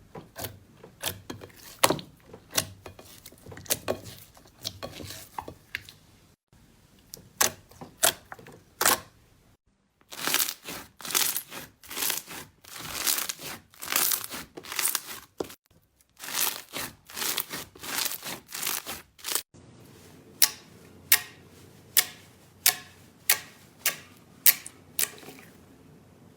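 Slime being pressed, poked and stretched by hand, giving sharp clicking and crackling pops. The pops are sparse at first, turn into dense crackling in the middle, then become single sharp clicks about once a second near the end.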